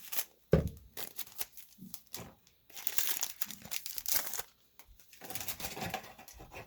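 A foil trading-card pack wrapper being torn open and crinkled by hand, in crackly stretches, with a knock about half a second in.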